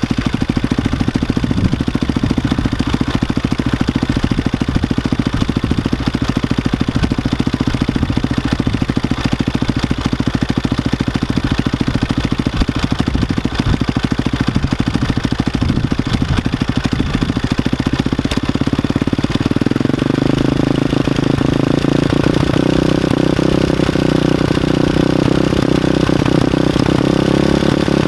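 KTM 525's single-cylinder four-stroke engine idling steadily through an aftermarket Akrapovic exhaust, with a close, even thumping beat. About two-thirds of the way through, the tone shifts higher and fuller.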